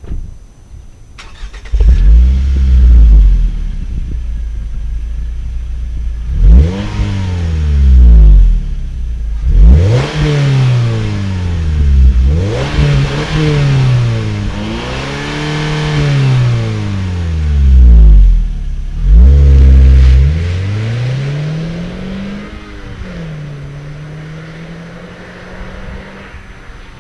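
Exhaust note of a 2009 Scion xB's 2.4-litre four-cylinder through a TRD sport muffler. The engine comes in about two seconds in, then its revs climb and fall again and again, before settling into a steadier, lower drone that fades near the end.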